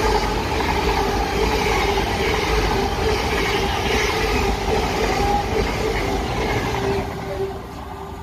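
A Hitachi Intercity Express Train in GWR green runs through the station without stopping, on its underfloor diesel engines. Wheels rumble on the rails under a steady engine hum, and the sound dies away near the end as the last carriage goes off down the line.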